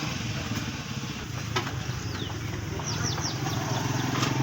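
Motorcycle engine idling steadily, with a few short bird chirps about two to three seconds in.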